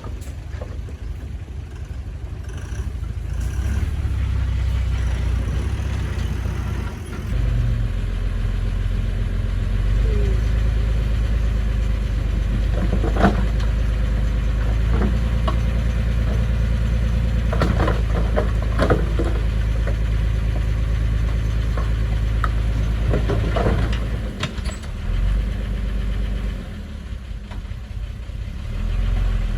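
Diesel engine of a construction machine running under load, its low drone stepping up about a quarter of the way in and holding steady. Several sharp metallic clanks and knocks come through over it.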